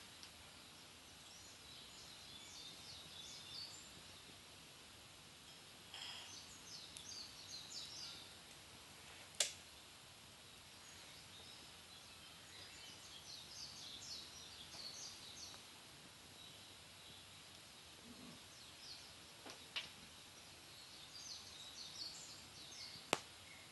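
Wood fire burning, with soft, scattered crackling and three sharp pops, the loudest about nine seconds in and just before the end.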